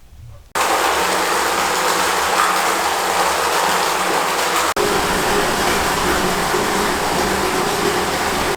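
Strong wind blowing across the microphone, a loud, steady rushing noise that starts abruptly about half a second in, drops out for an instant around the middle and cuts off at the end.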